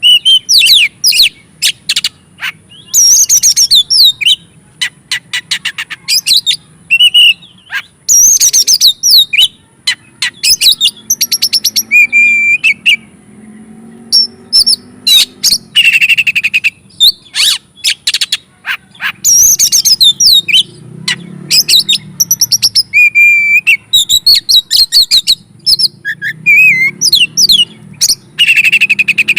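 Oriental magpie-robin (kacer) singing loudly and continuously: a fast, varied song of whistled notes, sweeping chirps and rapid rattling trills, with short pauses between phrases.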